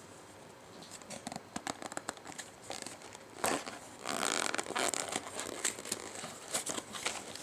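Crinkling and rustling with many scattered clicks, growing louder about three and a half seconds in, as of something crinkly being handled.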